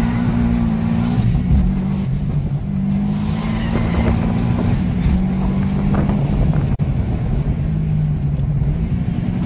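A 370-horsepower car engine heard from inside the cabin while driving. It runs steadily under load, its pitch dipping and climbing again a few times.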